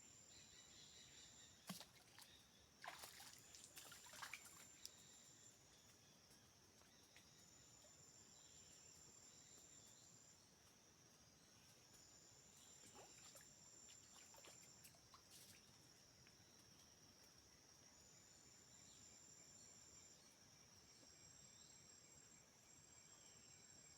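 Faint, steady high-pitched chorus of forest insects, with a second, higher trill starting and stopping every few seconds. A few sharp clicks and knocks sound in the first five seconds, and one more at about thirteen seconds.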